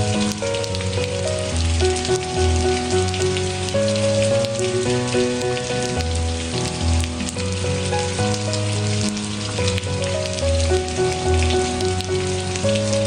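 Steady rain with many small drop ticks, mixed with slow, calm instrumental music: held notes that change every second or two over a low bass line.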